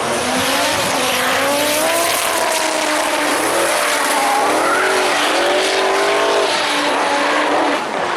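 Audi Quattro A2's turbocharged 2.2-litre 20-valve inline five-cylinder running hard at high revs while drifting. The revs rise, drop and swing up and down several times over a steady hiss of tyres sliding.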